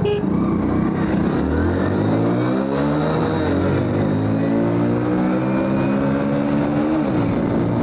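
Hero Splendor motorcycle's single-cylinder four-stroke engine pulling hard at full throttle, its note climbing in pitch as the bike speeds up, with wind rushing over the microphone. About seven seconds in, the engine note briefly drops and then climbs again.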